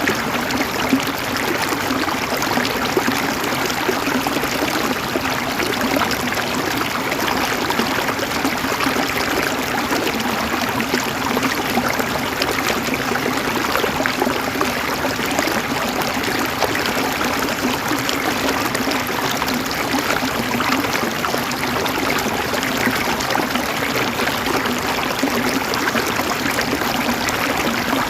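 River water flowing and burbling over stones, a steady rushing and gurgling with no letup.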